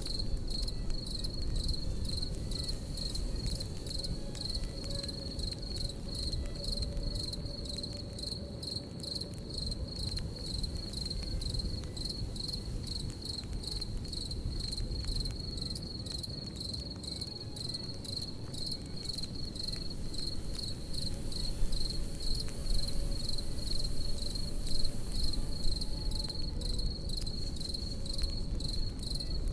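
Crickets chirping in a steady, rapid, regular pulse over a crackling campfire. The fire gives a low rumble with scattered sharp crackles and pops, which grow louder and more frequent about two-thirds of the way through.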